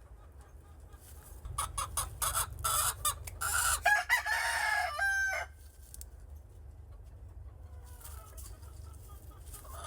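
Gamefowl roosters crowing and clucking, loudest from about one and a half to five and a half seconds in, ending in a long crow.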